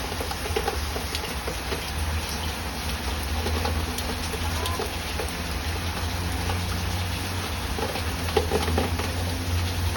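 Heavy rain falling steadily, with a low rumble of wind on the microphone and a few short faint sounds scattered through it.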